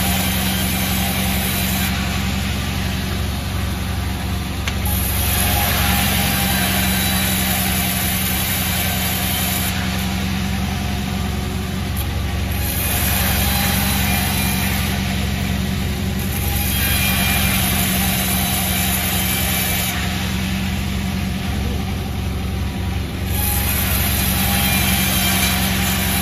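Sawmill machinery running with a constant low motor hum. A higher hiss over it rises and falls every few seconds.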